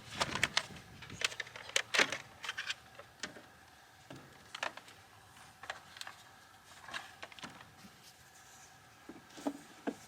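Irregular clicks, knocks and light clatter of gear being handled, busiest in the first few seconds and sparser after.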